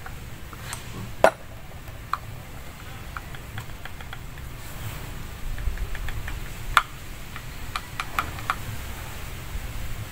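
Metal parts of a disassembled PT fuel pump clicking and clinking as they are handled, with a sharp clink about a second in and another near seven seconds.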